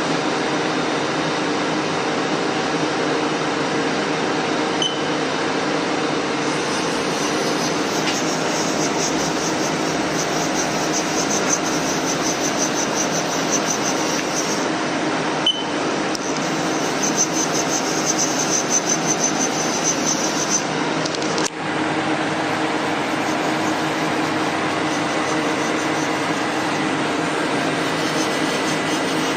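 Haas TL3B big-bore CNC lathe running, a steady machine hum with several steady tones; a higher hiss comes in twice in the middle for a few seconds each time.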